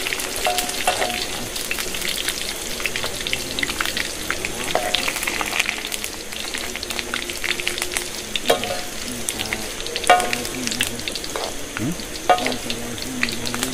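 Food frying in a pan, sizzling with a steady patter of small crackles and a few louder clicks.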